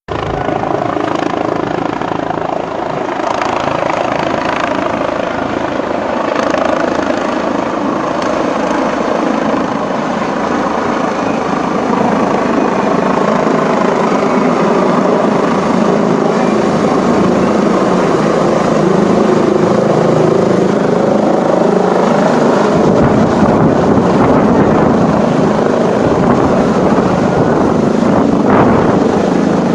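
Helicopter's rotor and turbine engine, a steady loud beat with a whine, growing gradually louder as it comes in to land.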